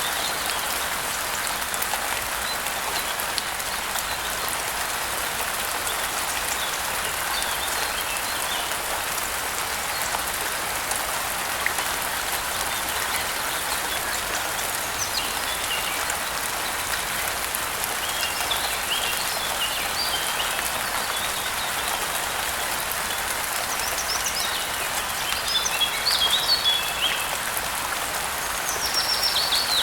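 Steady rain hiss, with small birds chirping here and there over it, more often in the second half, and a quick falling trill near the end.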